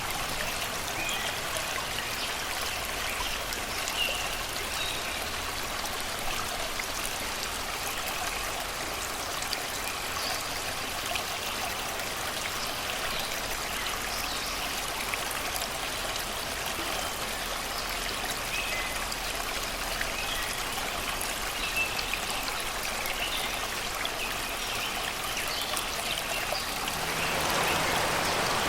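Shallow river running over rocks and stones, a steady babbling rush with faint birdsong in the forest behind. Near the end the water becomes louder and harsher.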